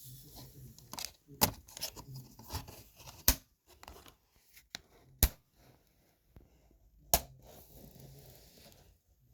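Acer laptop keyboard being pried up with a screwdriver: four sharp plastic snaps about two seconds apart, with smaller clicks and scraping between.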